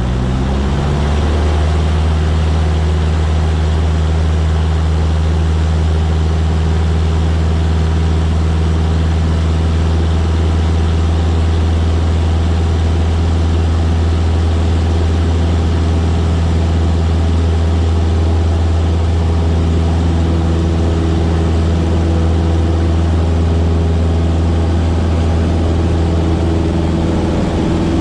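Cessna 152's four-cylinder Lycoming O-235 engine and propeller running with a steady drone, rising in pitch over the first second and then holding steady.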